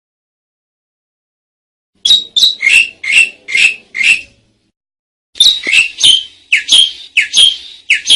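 Asian pied starling (jalak suren) calling in two quick runs of about seven harsh, rasping notes each, the first about two seconds in and the second a second later.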